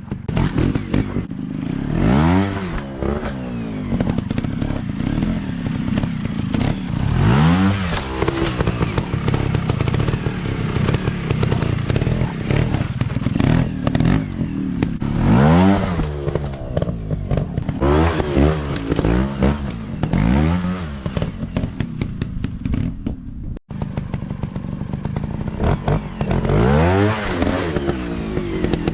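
Dirt bike engine running hard, revving up and dropping back again and again as the throttle is worked.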